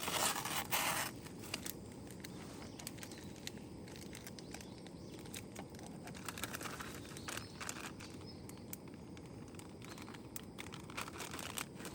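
Crinkling and rustling of something being handled, loudest in the first second, with scattered light clicks and a steady low hiss underneath.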